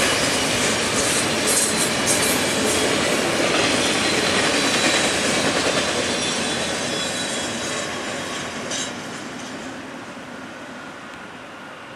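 Double-stack intermodal container cars rolling past on the rails, their wheels clicking over the track joints. The sound fades away over the second half as the train moves off.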